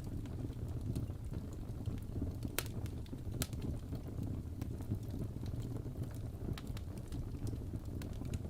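Wood fire burning in a fireplace: a steady low rumble of the flames with scattered sharp crackles and pops of burning logs, two louder pops about a third of the way in.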